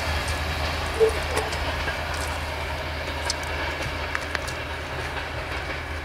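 Diesel-hauled passenger train pulling away: a steady low locomotive rumble with scattered sharp clicks of wheels over rail joints, the loudest about a second in, slowly fading as it recedes.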